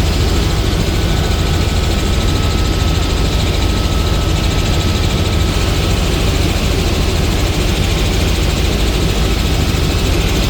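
Helicopter in flight: a steady, loud drone of turbine and rotor, with a faint thin whine that fades out about halfway.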